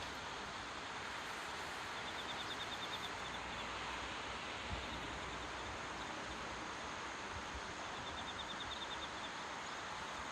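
Steady rushing of the floodwater in the swollen Chikuma River. A faint, rapid, high chirping trill comes twice, about two seconds in and about eight seconds in.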